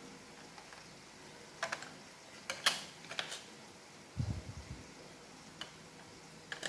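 Scattered sharp clicks and light knocks of a Roomba's plastic parts being handled and fitted together during reassembly, with a dull thump about four seconds in.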